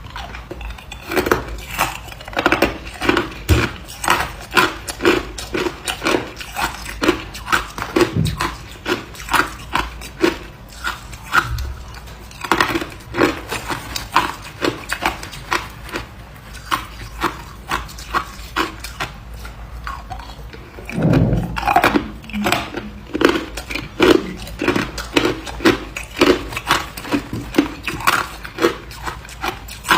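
Hard ice being bitten and chewed close to the microphone: a steady run of sharp crunches, about two or three a second, with a heavier, deeper crunch about two-thirds of the way through.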